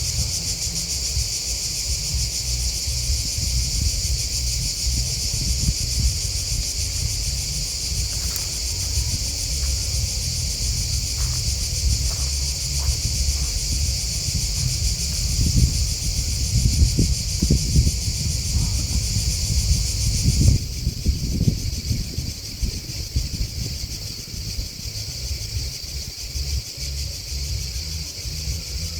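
Grasshoppers and crickets chirping in a steady, high-pitched chorus that drops abruptly to a fainter level about two-thirds of the way through. A low, gusting rumble runs underneath and is strongest just before the drop.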